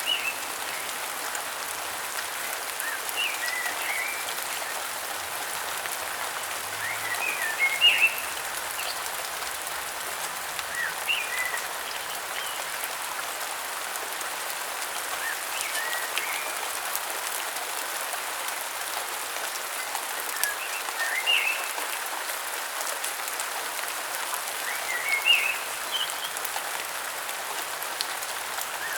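Steady rainfall, with a bird calling a short chirping phrase about every four seconds.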